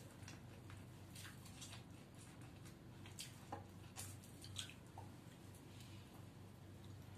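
Faint wet chewing and sucking on cooked drumstick (moringa) pods eaten by hand, with scattered soft mouth clicks and smacks, a few sharper ones in the middle. A low steady hum underneath.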